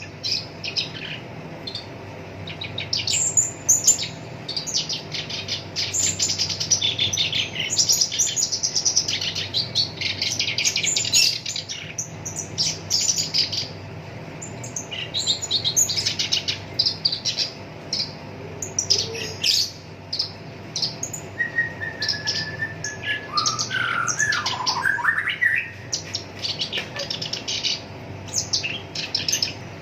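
Black-browed reed warbler singing a fast, harsh, chattering song of rapid scratchy notes in long runs with short pauses, with a lower sliding phrase about three-quarters of the way through.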